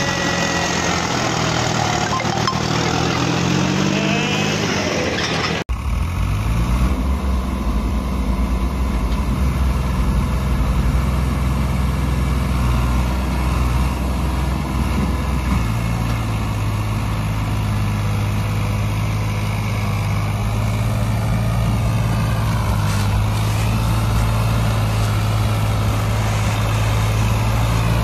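Diesel tractor engine running, its note shifting up and down with the throttle. It breaks off abruptly about six seconds in and carries on, steadier, afterwards.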